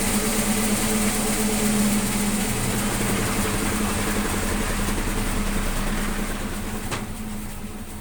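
Sawmill machinery running steadily with a strong engine-like hum, then winding down over the last two seconds, with a single sharp click near the end.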